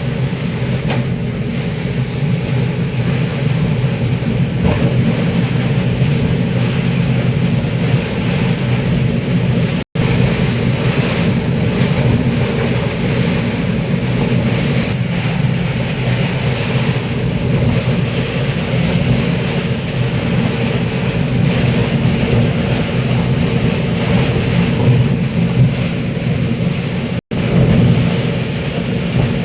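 Heavy rain pouring steadily, a dense hiss over a low rumble. The sound cuts out for an instant twice.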